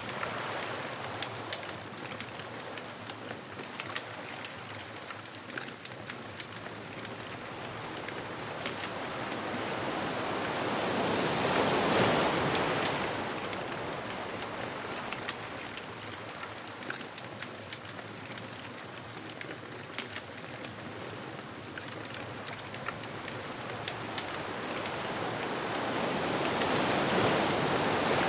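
Ocean surf washing on a beach: a steady hiss of water that swells to a loud peak about twelve seconds in and again near the end as waves break.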